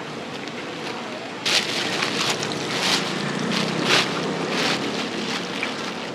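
Deep-frying: hot oil sizzling and crackling, starting suddenly about a second and a half in.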